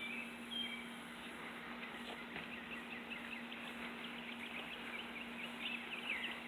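Songbirds chirping and twittering in many short, quick calls, faint against a steady low hum and outdoor background noise.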